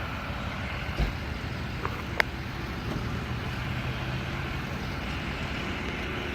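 Steady low rumble of truck engines and road traffic, with a dull thump about a second in and a sharp click about two seconds in.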